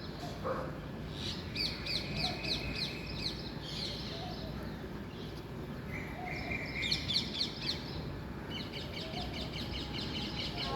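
Several birds calling: repeated runs of rapid high chirps, about three to four a second, over a steady low background hum.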